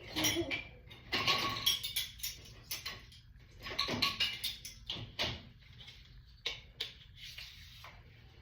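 Dishes and kitchenware clinking and knocking in an irregular string as they are put away into kitchen cabinets, a few clinks ringing briefly.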